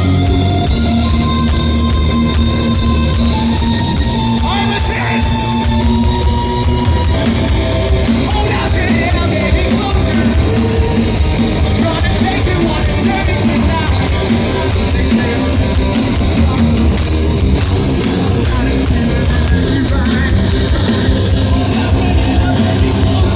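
A heavy rock band playing live and loud: a drum kit and electric guitars with sung and yelled vocals. The full band grows denser about seven seconds in.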